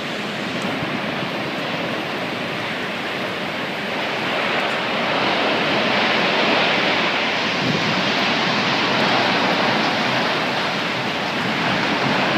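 Tornado-strength wind rushing and buffeting the microphone, a steady noise that grows louder about four seconds in.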